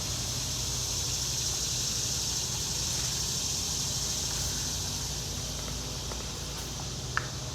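Steady high-pitched chorus of insects with a low steady rumble beneath, and one short click near the end.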